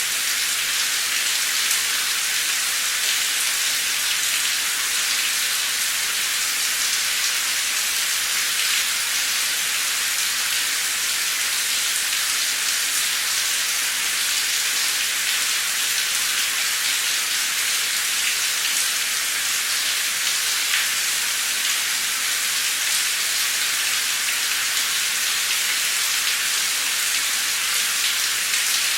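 Heavy, steady downpour of rain: a dense, even hiss with the patter of drops.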